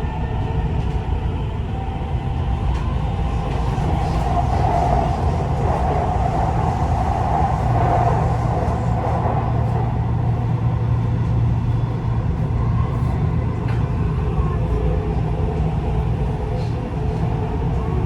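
Dubai Metro train running between stations, heard from inside the carriage: a steady rumble of wheels on the rails, with a mid-pitched whine that swells about four seconds in and eases after about nine.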